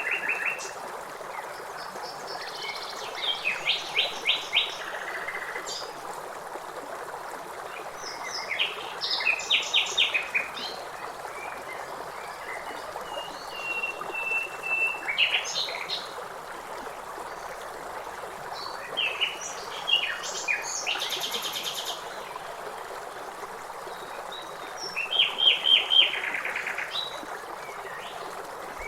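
Songbirds singing in short phrases of rapid chirps, a few seconds apart, over a steady rush of river water.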